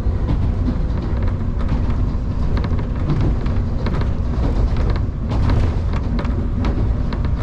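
Electric passenger train running between stations, heard from inside the car: a steady low rumble of wheels on rail with frequent irregular clicks and rattles.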